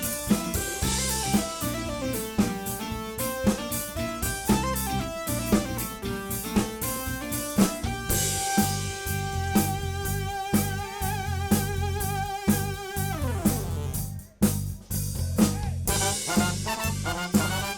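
Live soul band playing an instrumental passage: drum kit keeping a steady beat under bass and quick melodic runs. About halfway through a lead instrument holds one long note with vibrato, which slides down near the end, followed by a brief break before the band comes back in.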